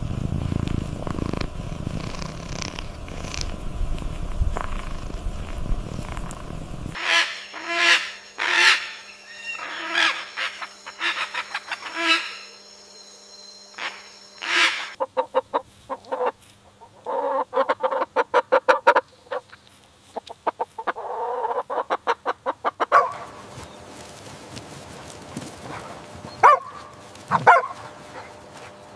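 Animal calls from several short scenes in turn, among them quick runs of short repeated notes in the middle.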